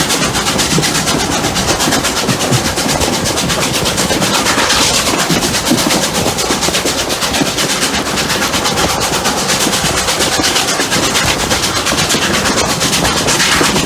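Steam locomotives Rx207 and 621 working hard uphill, heard from on board the train: a fast, even beat of exhaust chuffs over steady running noise.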